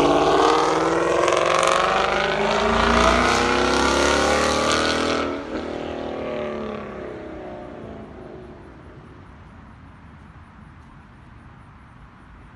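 2015–2017 Ford Mustang GT's 5.0-litre V8 through a Corsa Xtreme cat-back exhaust at wide-open throttle in a drive-by. The exhaust note climbs in pitch for about five seconds, then drops suddenly as the car passes and fades away.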